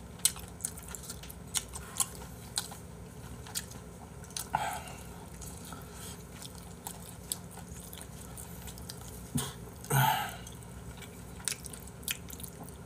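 A person chewing close to the microphone, eating spicy stir-fried webfoot octopus and pork belly, with many short wet mouth clicks and smacks. Two brief louder sounds come near the middle and again about ten seconds in.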